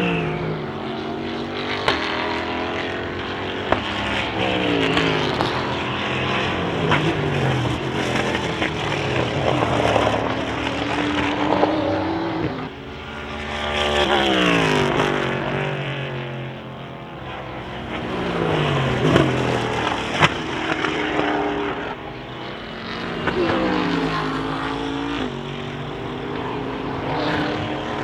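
Endurance race cars passing at speed one after another, their engine notes falling in pitch as each goes by and rising again through the gears, several engines often heard at once. A few short sharp cracks stand out among them.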